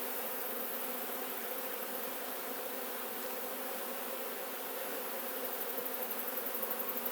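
Many honeybees flying around an opened hive, a steady buzzing hum. The bees are stirred up and searching for honey on wax and frames left out beside the hive.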